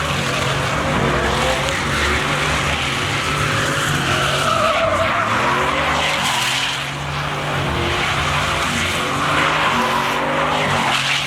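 Pickup truck doing a burnout: the engine runs at high revs, rising and falling, while the spinning rear tires screech and smoke against the pavement.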